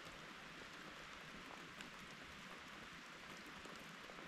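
Rain falling steadily: an even, faint hiss with scattered single drops ticking.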